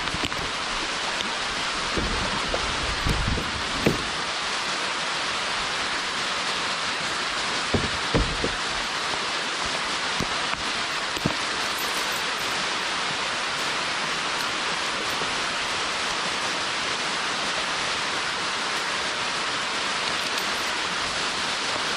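Hard summer rain falling steadily, a dense even hiss. A few low thumps come in the first half.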